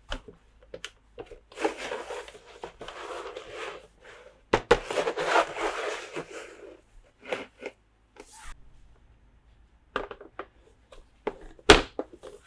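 Packaging being handled in a toy unboxing: two long stretches of rustling and crinkling in the first half, then scattered clicks and taps of small plastic pieces, the loudest click near the end.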